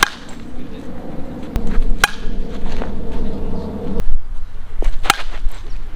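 Sharp cracks at the very start, about two seconds in and about five seconds in, with fainter knocks between them, over a wavering insect buzz that stops about four seconds in.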